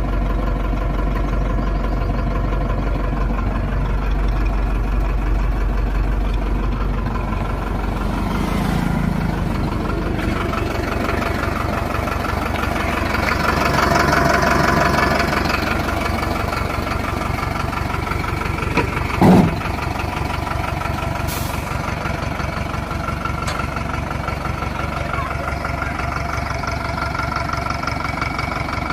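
Truck engine idling steadily, with one brief loud sound falling in pitch about two-thirds of the way through.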